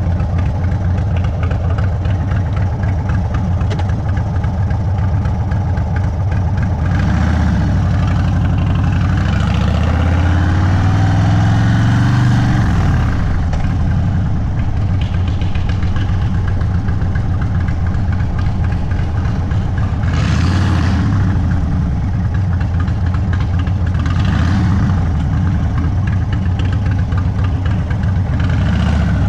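Indian Sport Chief V-twin with a Sawicki Speed exhaust running at low speed. Its note climbs in pitch as it accelerates from about eight seconds in, drops off just after twelve seconds, then settles back to a steady low note. A brief hiss comes about twenty seconds in.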